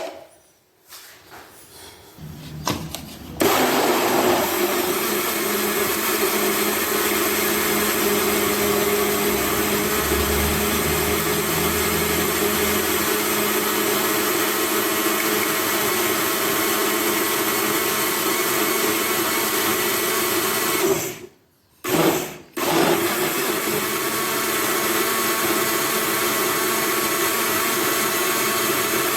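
Electric blender with a plastic jug switched on about three seconds in and running steadily, blending a thick drink of ripe banana and soaked oats. About two-thirds of the way through it cuts out twice for a moment and starts again.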